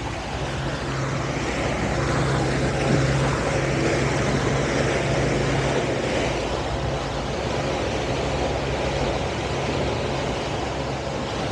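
Towboat's engine running steadily under way while pulling another boat on a tow line, a constant low hum under the rush of wind and water.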